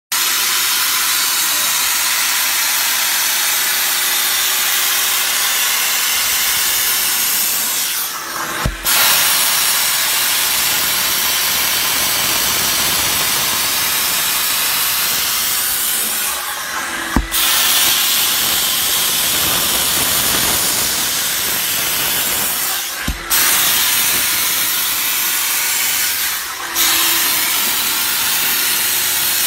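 Steam jet from a professional steam car wash machine's gun, a loud steady hiss that breaks off briefly several times and comes back with a click.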